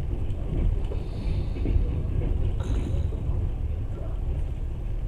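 Passenger train running, heard from inside the carriage: a steady low rumble of the wheels and car body.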